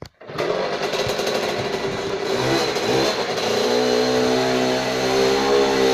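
Dirt bike engine starts suddenly about a third of a second in and runs, revving up around the middle, then holding at a steady, higher engine speed for a burnout.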